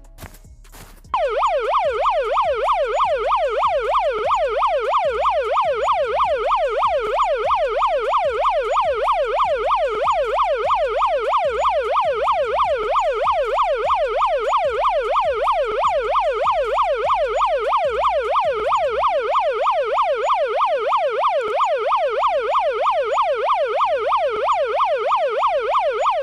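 Police siren in a fast yelp: the pitch sweeps up and down about four times a second, starting abruptly about a second in and keeping a steady level.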